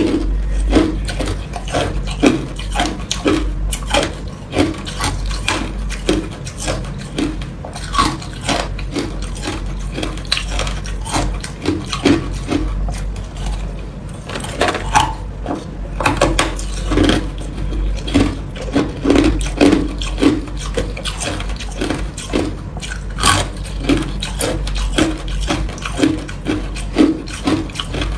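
Ice being chewed close to the microphone: a continuous run of short, crisp crunches, one after another.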